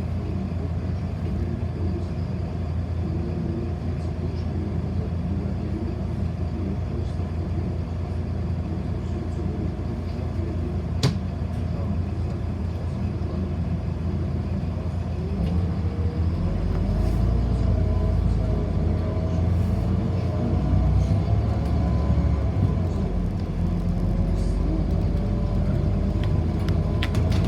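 Inside a city bus: a steady low rumble from the drivetrain and road. About a third of the way from the end, the low rumble grows louder and a whine rises in pitch as the bus pulls away and speeds up. There is one sharp click near the middle.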